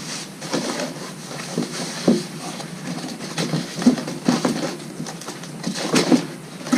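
Packing material being pulled out of a cardboard box: irregular rustling, crinkling and light knocks, in short uneven bursts.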